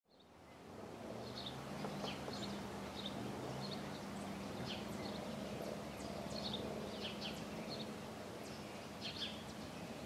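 Small birds chirping, short high calls repeated irregularly, over a steady low hum; the sound fades in over the first second.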